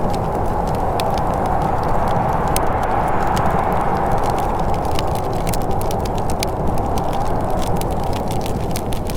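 Wood fire crackling in a fireplace, with frequent sharp little pops and snaps over a steady rushing noise.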